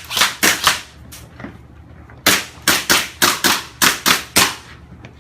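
Gun firing single shots: three quick cracks, a lull, then about eight more in rapid succession, roughly four a second, each with a short echoing tail.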